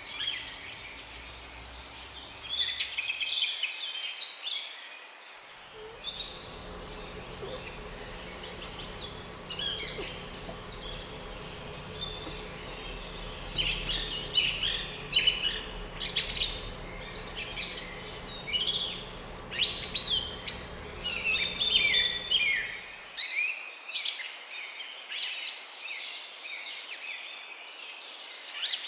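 Many small birds chirping and twittering together, short rapid calls overlapping without pause. A low steady hum sits underneath from about six seconds in until it stops abruptly near the end.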